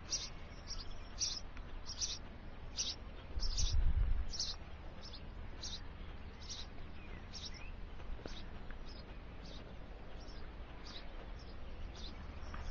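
A small songbird chirping over and over, short high-pitched chirps about twice a second, at an occupied nest box. A brief low rumble about three and a half seconds in.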